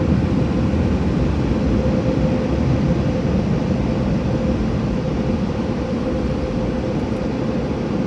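Automatic car wash machinery running: a steady, loud rushing noise with a constant hum-like tone through it.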